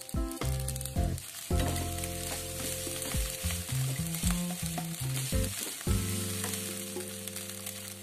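Fried rice sizzling in a non-stick wok as it is stirred with a wooden spatula, with background music playing over it.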